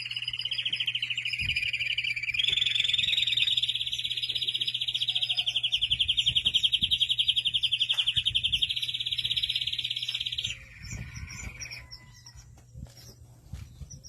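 Belgian canary singing a long rolling trill of very rapid pulsed notes. The trill steps up in pitch about two seconds in, breaks off around ten seconds, and is followed by a few faint chips. A steady low hum runs underneath.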